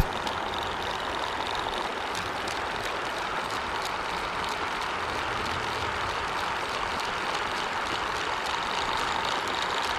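Pond water fountain spraying and splashing back onto the water, a steady rushing hiss.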